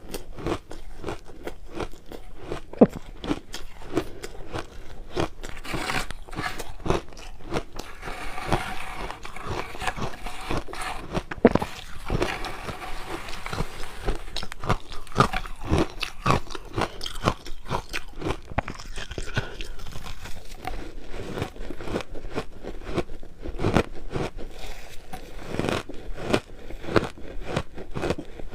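Crushed ice being bitten and chewed close to the microphone: a continuous run of sharp, irregular crunches, busier and finer through the middle.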